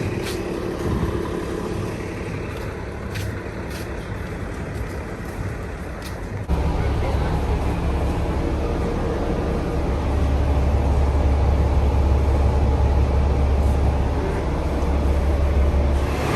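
Steady road-vehicle noise with a deep low rumble that comes in abruptly about six and a half seconds in and grows louder from about ten seconds in.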